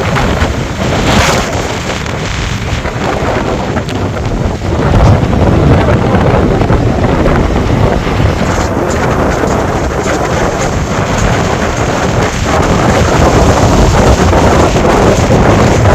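Strong cyclone wind buffeting the microphone in a loud, continuous rumble of gusts, growing louder about five seconds in and again near the end.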